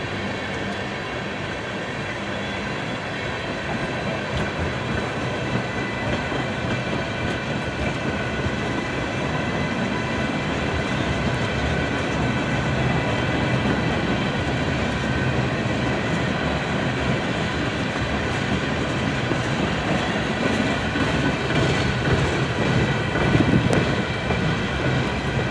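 Freight train of empty tank cars rolling past, wheels clacking over the rail joints, with steady high ringing tones over the rumble. It grows slowly louder towards the end.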